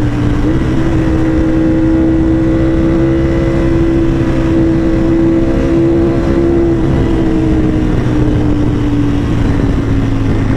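Motorcycle engine pulling at a steady speed, its pitch stepping up slightly about half a second in, holding, then easing down a little after about seven seconds, over a steady rush of noise.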